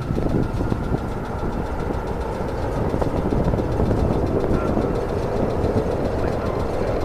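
Strong wind buffeting the microphone: a steady, loud rumble that gusts unevenly, with a faint steady high tone underneath.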